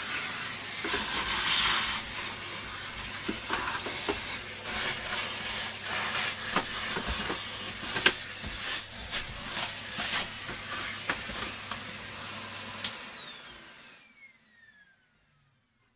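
A vacuum cleaner running with a steady rushing suck. The nozzle knocks and clicks repeatedly as dirt and grit rattle up it while it cleans out a dusty plastic appliance body. Near the end it is switched off and its motor winds down with a falling whine.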